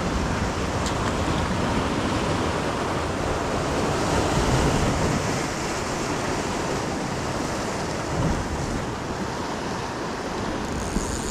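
Ocean surf washing on the shoreline: a steady rush that swells slightly about halfway through.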